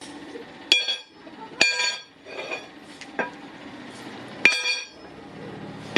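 Hammer blows on steel at a blacksmith's anvil: four main strikes at uneven intervals, each ringing briefly with a bright metallic tone, and a lighter knock between them.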